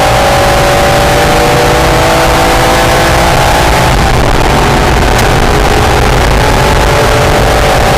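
Mid-engined Honda NSX V6 under way on a race track, heard loud from inside the car with heavy road and wind noise. The engine note sags slowly, then changes about halfway through and holds or climbs again, as the car comes off the throttle and then pulls out of a corner.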